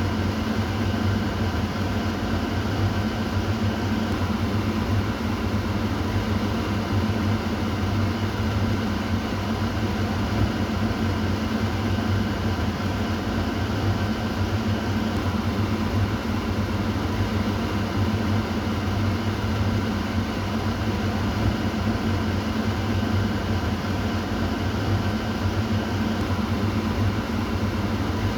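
Kitchen exhaust fan running steadily, a constant airy rush over a low motor hum with faint steady whining tones above it.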